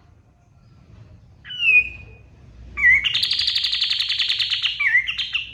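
Kapas tembak bird singing: a clear falling whistle, then a loud, fast, chattering trill of rapid notes broken by short whistled phrases.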